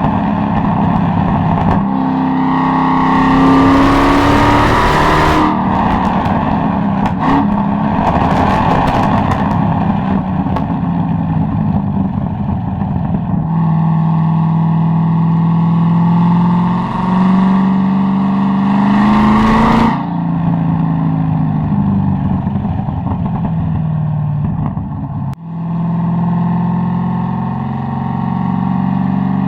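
Chevrolet Corvette C6 Z06's 7.0-litre LS7 V8 running under way, heard through its exhaust, the engine note rising with the revs and falling back several times. A run of sharp exhaust crackles and pops comes about six to ten seconds in.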